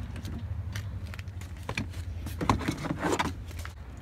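Irregular clicks and rattles of small hard objects being handled and rummaged through, over a steady low hum.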